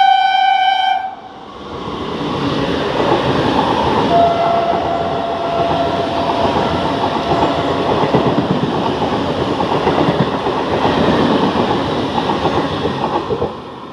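An Indian Railways train's horn sounding and cutting off about a second in, then the train passing at speed, its wheels clattering loudly over the rails, the noise dropping away near the end as the last coaches go by.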